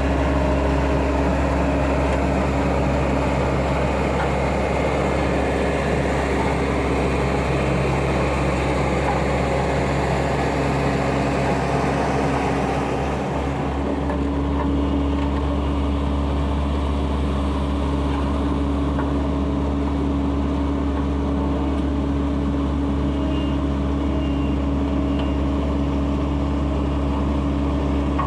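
Diesel engine of heavy road-building machinery running steadily, a deep drone with a constant pitch; the higher hiss in the sound falls away about halfway through.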